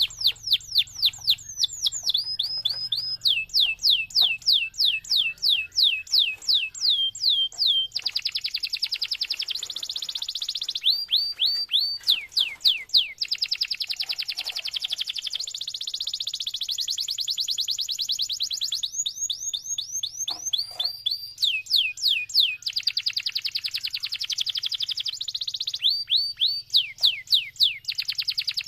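Domestic canary singing a long unbroken song: runs of repeated downward-sweeping whistled notes, several a second, alternating with long rapid trills that hold for a few seconds each.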